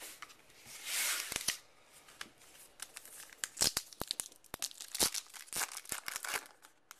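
A trading card pack's wrapper is torn open about a second in. Then come a run of sharp crinkles and crackles as the wrapper is crumpled and the cards are handled.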